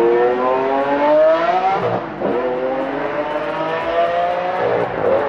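A supercar's engine accelerating hard through the gears, its high note rising steadily in pitch, dropping with an upshift about two seconds in and again near the end.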